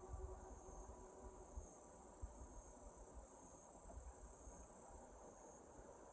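Faint steady high chirring of insects. A train horn's tone dies away in the first second or so, and a faint low rumble fades underneath.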